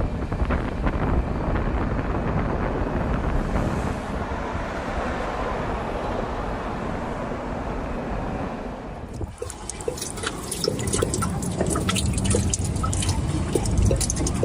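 A steady rushing noise, then a sudden change about nine seconds in to water dripping and trickling, with many quick irregular drops.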